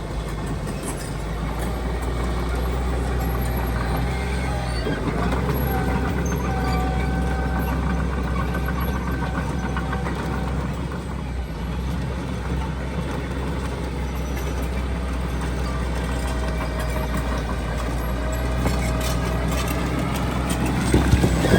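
Heavy diesel earthmoving machinery running steadily: a low engine drone with a faint wavering whine above it. Near the end it grows louder with a burst of clatter.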